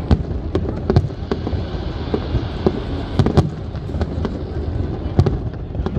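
Aerial fireworks shells bursting in a rapid, irregular series of bangs over a steady rumble.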